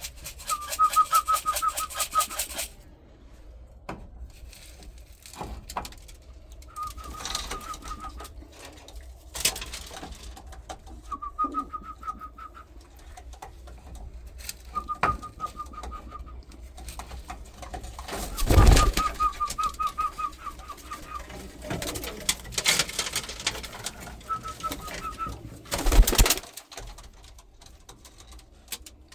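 Domestic pigeons calling in a loft: short runs of rapid, fairly high pulsed calls every few seconds, with a few brief loud bursts of rustling or flapping.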